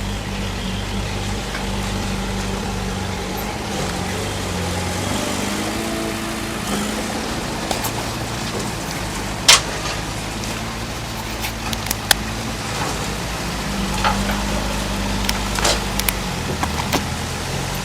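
A heavy diesel earth-moving machine, most likely a bulldozer, running steadily under load, with several sharp metallic clanks. The loudest clank comes about halfway through.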